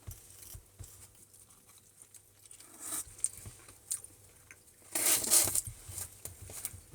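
Close-up eating noises: scattered small clicks and bites of chewing, with a louder rustle about five seconds in.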